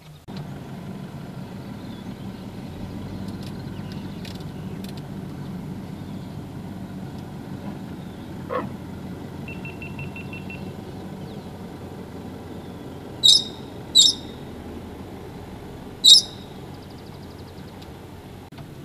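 A vehicle engine idling with a steady low hum. Over it, a bird gives three sharp, high calls, two close together about two-thirds of the way in and a third about two seconds later.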